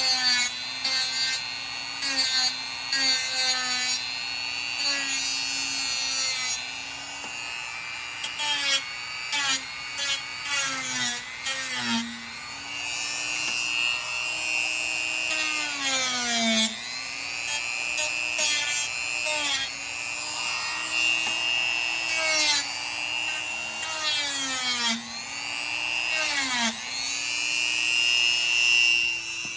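Dremel rotary tool grinding down the edges of a 3D-printed plastic gas tank mount. Its high whine sags in pitch and recovers several times as the bit bites in, with scattered scraping clicks.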